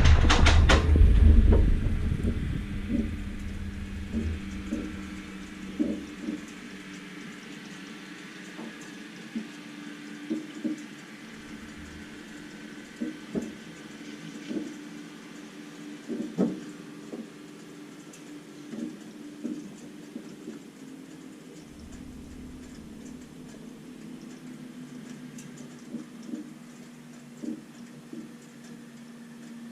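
Cessna 140A's engine sound dying away over the first few seconds, leaving a faint steady hum with scattered light knocks and clicks.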